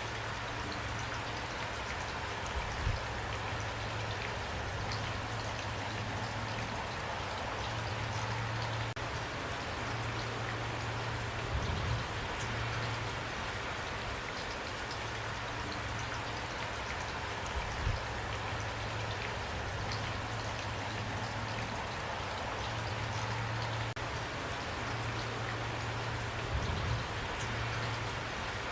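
Steady rain falling, an even patter of drops on a surface, with a low hum that comes and goes and a few brief low thuds.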